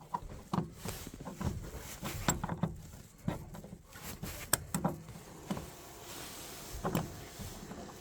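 Scattered light clicks and knocks, irregularly spaced, of small objects being handled.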